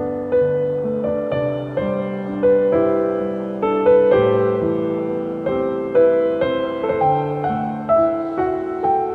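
Soft, slow solo piano music: gentle chords and melody notes struck about once or twice a second and left to ring and fade.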